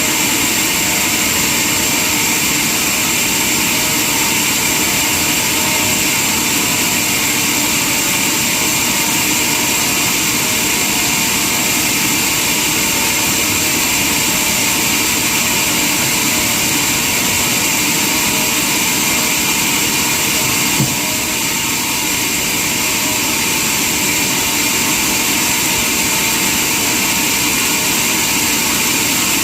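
Sawmill machinery running steadily with a high whine, with a single knock and a slight drop in level about two-thirds of the way through.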